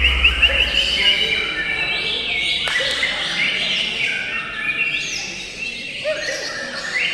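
Several songbirds chirping and singing at once, in overlapping rapid trills and quick runs of repeated notes. A low hum sits under them for about the first second.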